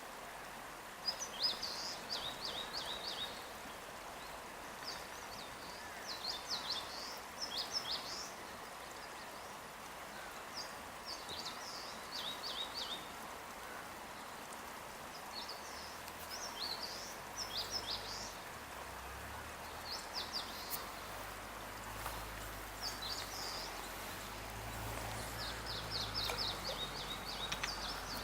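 A songbird singing short phrases of quick, downward-sweeping high notes, repeated every two to three seconds, over a steady outdoor hiss. A low rumble comes in about halfway through.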